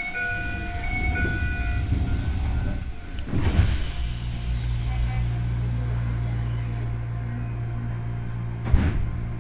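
Inside a Keisei 3100 series commuter train at the platform: a short run of stepped electronic tones, then a sharp noisy thump about three seconds in, typical of the doors sliding shut before departure. After that the car's equipment gives a steady low hum, and there is a brief sharp click near the end.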